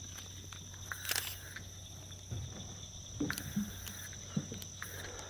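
Steady high-pitched insect chorus droning on two unchanging tones, with a low hum beneath, a brief rustle about a second in and scattered light clicks.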